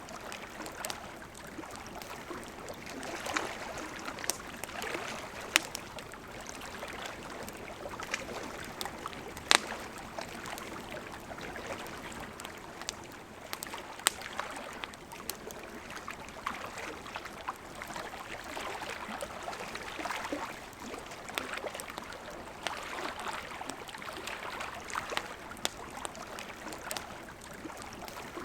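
River water flowing steadily, with a campfire crackling over it: scattered sharp pops and snaps, the loudest about a third of the way in.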